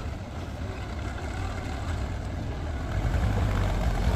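Diesel engine of heavy machinery running steadily, getting louder about three seconds in.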